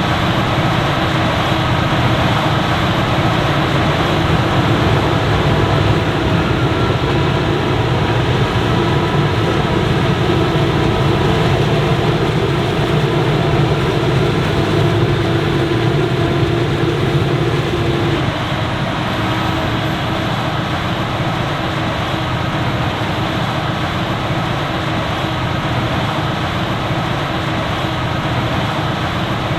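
Heavy diesel machinery of a maize silage harvest, forage harvester and tractors, running steadily. A steady whine stops about 18 seconds in, and the sound gets a little quieter.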